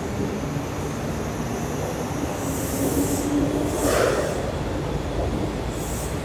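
Kintetsu electric commuter train running slowly alongside the platform, with a steady low rumble. Short hissing bursts come about two and a half and four seconds in.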